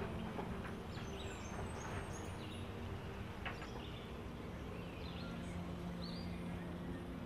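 Small birds chirping, with scattered short tweets and brief whistled glides, over a steady low hum.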